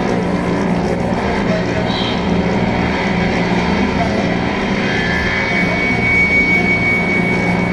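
Drone and noise music: a steady low droning hum under a dense grinding noise texture, with a thin high whistling tone coming in about five seconds in and held.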